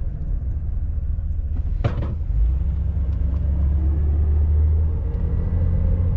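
1989 Chevy G20 van driving, a steady low rumble of engine and road, heard from inside the cab. A sharp click comes about two seconds in, and the engine note rises slightly near the middle.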